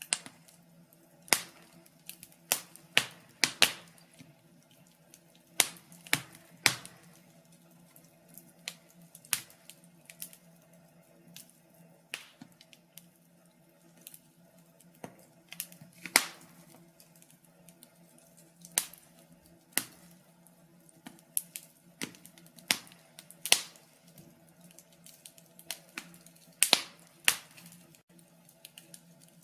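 Wood fire crackling in a fireplace: sharp, irregular pops and snaps, clustered and spaced unevenly, over a faint steady hum.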